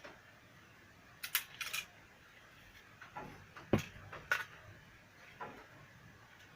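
Scattered small clicks and light knocks from tools and parts being handled at a repair bench: a quick cluster of clicks early on, then single knocks, the loudest about three and three-quarter seconds in.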